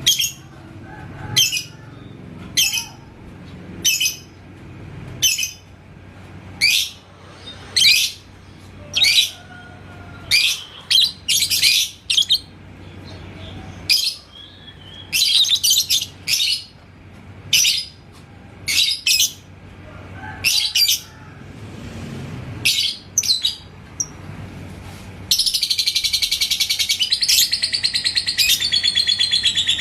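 Lovebird giving short sharp high chirps about once a second, then near the end breaking into a long continuous rapid trill, the 'ngekek' song.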